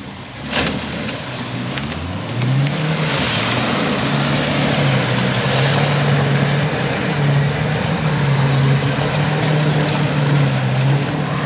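Vauxhall Frontera's engine revving up and held at steady high revs as the 4x4 wades through deep muddy water up to its doors, with water churning around it. There is a sharp thump just after the start, and the engine note climbs about two seconds in, then holds.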